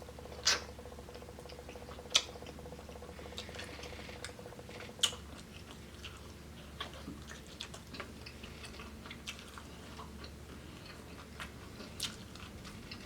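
A person chewing fried chicken close to the microphone, with a few sharp crunches scattered through the chewing.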